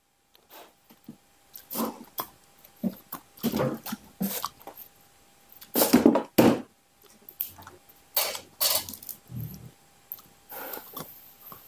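Irregular knocks and clatter of kitchen things being handled: dishes, bowls and a cutting board being moved about on a counter.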